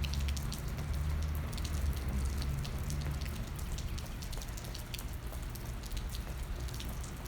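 Rain falling, with many scattered drops ticking close by, over a steady low rumble.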